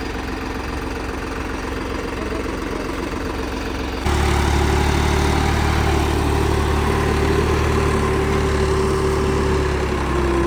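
New Holland 3630 tractor's three-cylinder diesel engine running steadily. About four seconds in, the sound jumps suddenly louder and heavier, with a steady whine over the engine note.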